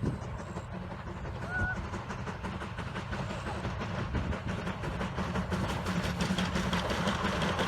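Steam locomotive train approaching on the track, its running rumble and rail clatter growing steadily louder.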